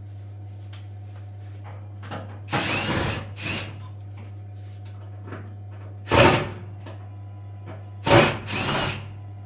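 Power drill-driver running in three short bursts, about a second each, as it works screws on the washing machine's panels.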